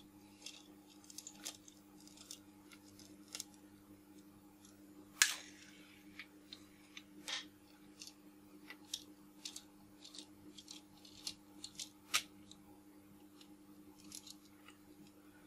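Small screwdriver clicking and ticking on the screws of a Nikkor 70-300 zoom lens as the screws are taken out, with a louder click about five seconds in and another about twelve seconds in, over a faint steady hum.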